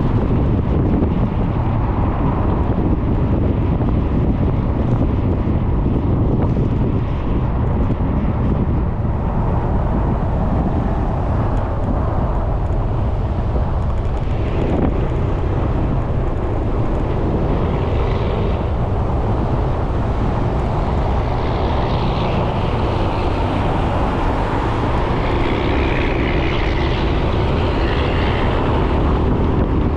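Steady wind and road noise from a scooter riding at speed, with the Suzuki Burgman 400's single-cylinder engine droning underneath.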